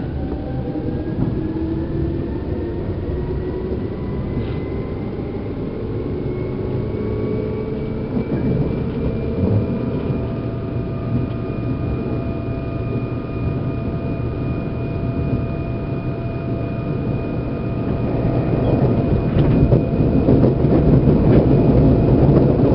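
Seibu New 2000 series electric train running, heard inside motor car MoHa 2291. The motor whine rises in pitch over the first ten seconds as the train gathers speed, then holds steady. The wheel and rail rumble grows louder near the end.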